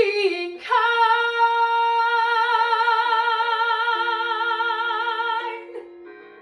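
A woman's singing voice holds one long high note with a wide vibrato over sustained accompaniment notes that change beneath it. The note cuts off about five and a half seconds in.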